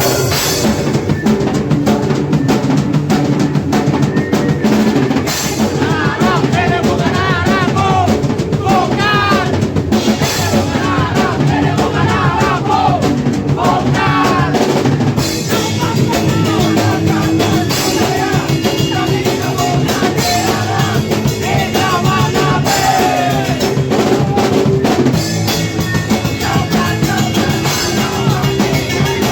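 Hardcore punk band playing an 80s-style riff: a fast, busy drum kit with bass drum and snare under distorted electric guitars and bass, loud and continuous.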